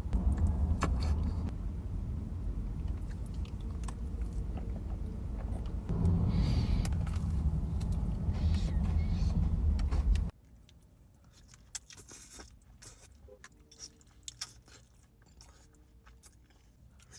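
Close-up eating sounds, chewing and small clicks of bites, over a steady low rumble. The rumble cuts off abruptly about ten seconds in, leaving only faint chewing clicks.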